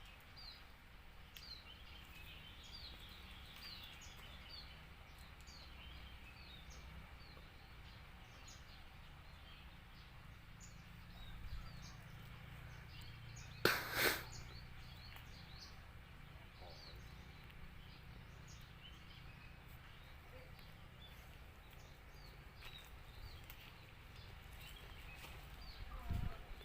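Small birds chirping and twittering throughout, with one sharp, loud air-rifle shot about fourteen seconds in. A low thump comes near the end.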